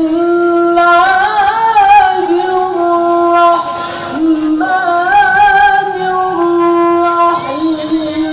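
Child's voice in melodic Quran recitation (tilawah), holding long drawn-out notes with wavering melismatic ornaments and pausing briefly for breath twice.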